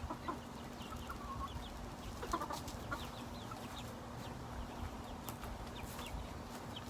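Chickens clucking, with frequent short high peeps, while the flock eats, over a steady low hum.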